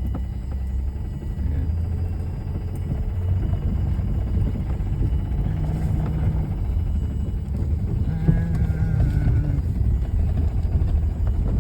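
Car engine running, a steady low rumble, with a short pitched sound about six seconds in and a longer one about eight seconds in.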